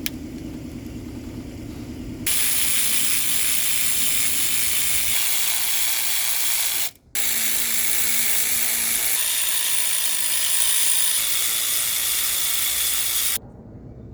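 A small motorised tool buzzes with a ratcheting texture for about two seconds. Then a loud, steady hiss runs for about eleven seconds, stops for a moment near the middle, and cuts off sharply near the end.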